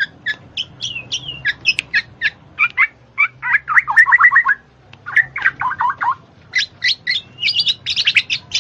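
A bird singing in a fast run of short, sharp chirps, some packed into quick trills, with a short break about halfway through.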